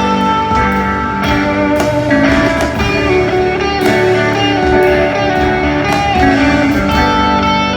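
Live band playing an instrumental stretch with guitar to the fore and held notes, without singing.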